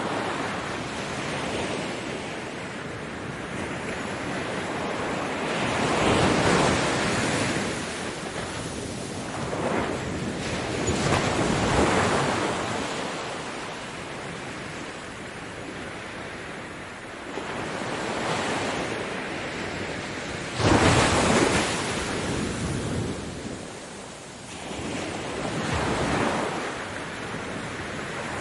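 Ocean waves breaking on a beach, a steady wash of surf that swells and falls every few seconds. The biggest wave breaks suddenly about three-quarters of the way through.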